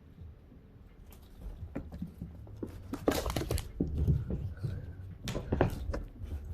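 Clicks and scrapes on a food dish holding wet cat food, with two louder clattering bursts about three and five and a half seconds in.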